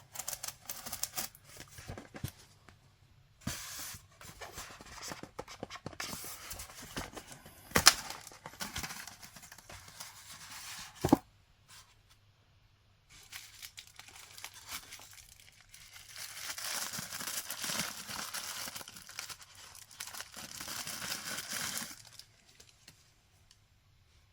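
Packaging being torn and crinkled during the unboxing of a collectible statue, in several stretches, with two sharp knocks about eight and eleven seconds in and a longer spell of tearing in the last third.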